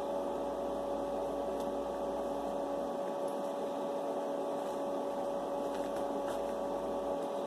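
A steady machine-like hum with a few constant tones, unchanging throughout.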